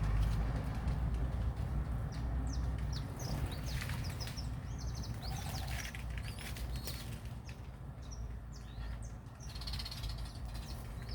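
Small birds chirping and twittering in short, quick notes, busiest in the middle and again near the end, over a steady low rumble.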